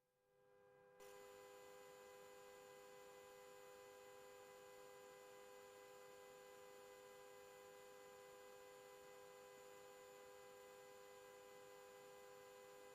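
Near silence, with a faint steady electrical hum made of a few high, unchanging tones that starts about a second in.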